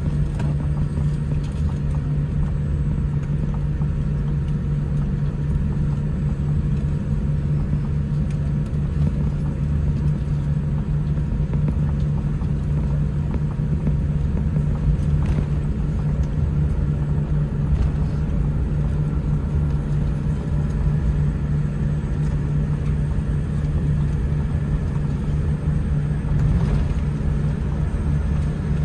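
Steady low rumble and hum inside the cabin of a Boeing 787-10 airliner taxiing after landing, with a couple of faint ticks.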